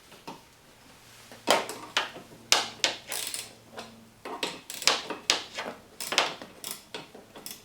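Hand tools clicking and knocking while a wiper arm is being fitted and its retaining nut worked. The irregular sharp clicks and knocks start about a second and a half in and come roughly two a second.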